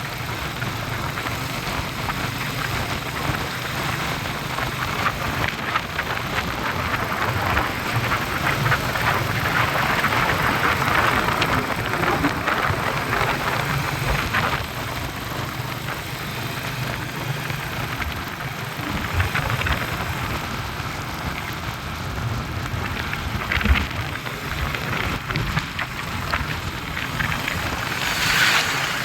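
Motorcycle engine running steadily while riding, with a constant rush of wind and road noise over it.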